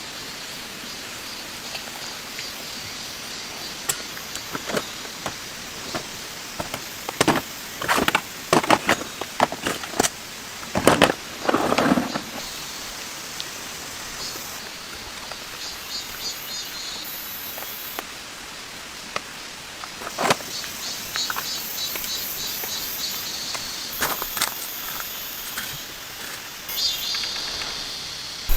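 Steady rain hiss with scattered knocks, clatters and rustles of gear being handled. The handling is busiest from about seven to twelve seconds in.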